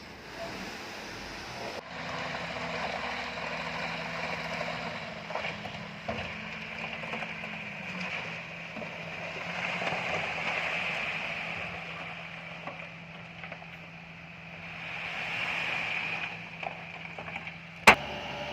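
Heavy diesel machinery, likely a bulldozer, running steadily with its working noise swelling and easing twice. A single sharp knock sounds near the end.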